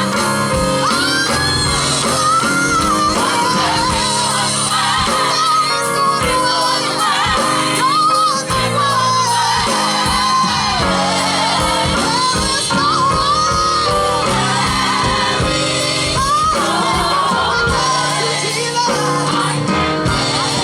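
Live gospel music: a lead singer's voice wavering and gliding over a band with sustained chords and a steady drum beat.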